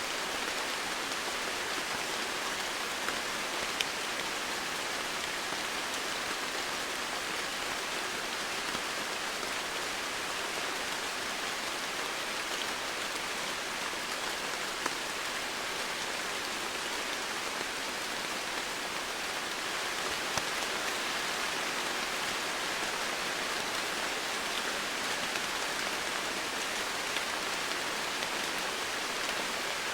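Steady heavy rain falling on foliage and surfaces, a constant hiss with scattered individual drops ticking through it.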